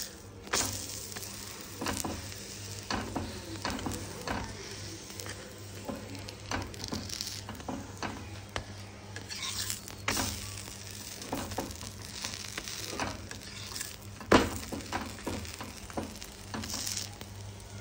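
Oiled aloo paratha sizzling as it fries on a flat griddle (tawa), with a plastic spatula flipping it, scraping and pressing it against the griddle in frequent short clicks and scrapes. One louder knock comes about fourteen seconds in.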